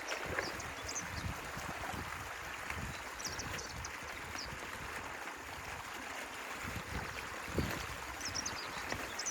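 Stream water running and gurgling steadily, with irregular low thumps and short high bird chirps now and then.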